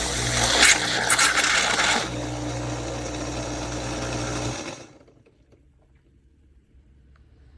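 Philips 4300 Series automatic espresso machine running, a steady motor whir with a low hum. It grows louder through the first two seconds, then cuts off about five seconds in.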